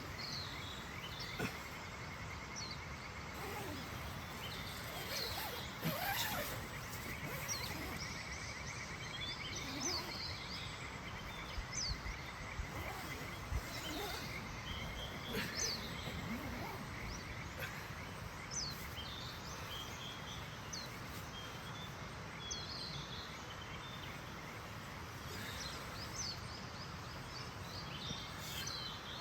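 Outdoor campsite ambience: a steady background hiss with scattered short bird chirps and calls, and a fast, even trill during the first several seconds.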